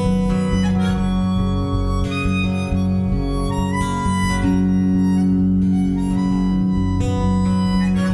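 Live country-blues band playing an instrumental passage: a harmonica carries the melody in long held and bent notes over guitar accompaniment.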